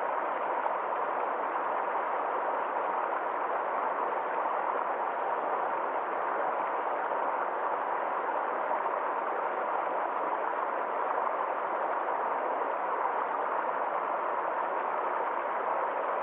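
Forest stream flowing, a steady even rush of water with no separate splashes or changes.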